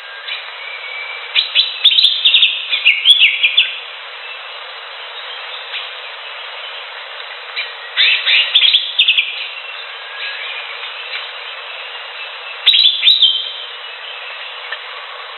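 Greater green leafbird (cucak hijau) singing in three bursts of rapid chirping notes: one about a second in, one near the middle and one near the end, over a steady hiss of background noise. The recording sounds thin, with no bass and no high treble.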